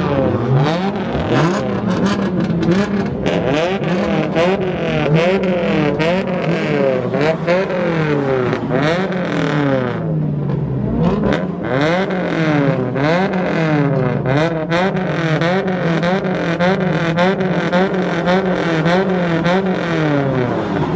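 Car engines revved hard again and again in a rev battle, their pitch sweeping up and falling back roughly every second, with many sharp cracks throughout.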